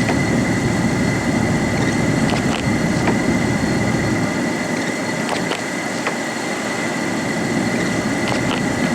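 A motor vehicle's engine running steadily, heard as an even rumble with a faint steady high whine and a few light clicks.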